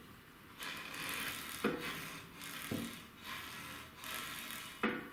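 Hand work on a motorcycle's leading-link front fork: three stretches of rasping, rubbing noise, with a short knock about every second and a bit, the sharpest one near the end.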